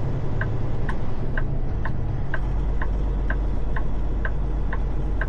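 A truck's turn-signal flasher clicking steadily, about twice a second, over a low steady engine rumble.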